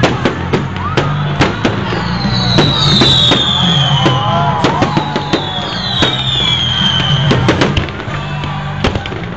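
Fireworks going off in quick succession, many sharp bangs and crackles, with two falling whistles each lasting about a second. Loud music with a steady bass plays underneath.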